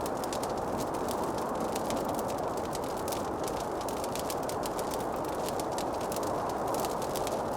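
Wood fire in a fireplace crackling: many small, irregular sharp pops over a steady rushing noise.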